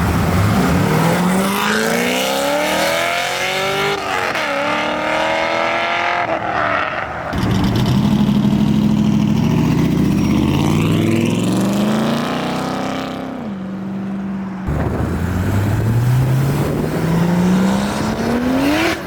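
Car engines accelerating hard at full throttle, their pitch climbing steadily through the revs, with a quick drop and climb again about four seconds in like a gear shift. The sound switches abruptly to another engine about seven seconds in and again near fifteen seconds, each pulling up through the revs.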